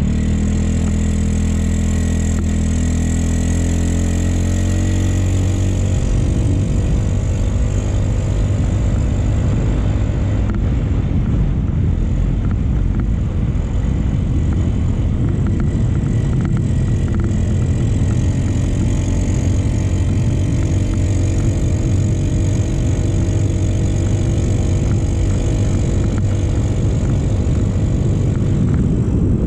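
Motorcycle engine running under way, its note shifting in the first few seconds, with wind and road noise rushing over the microphone.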